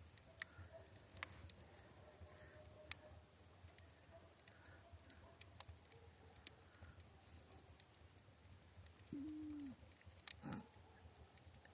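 Faint, sparse crackling of a wood fire: scattered sharp clicks and pops. About nine seconds in a short low steady tone sounds for under a second, followed by a dull thump.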